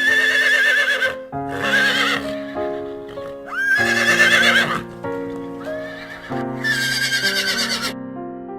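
Horse neighing four times, each whinny about a second long with a quavering pitch, over gentle keyboard music.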